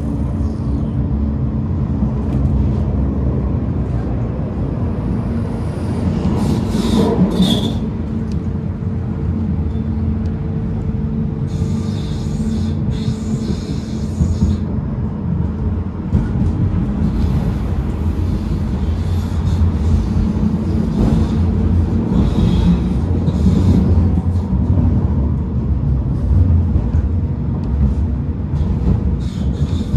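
Tram heard from inside while running: a steady low rumble of wheels on rail, with high screeching or hissing passages a few times, the longest about a quarter of the way in and around the middle.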